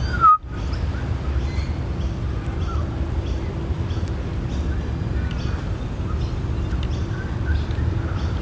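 Australian magpie carolling: short warbling, fluting notes, one louder falling note near the start and fainter ones after it, over a steady low rumble.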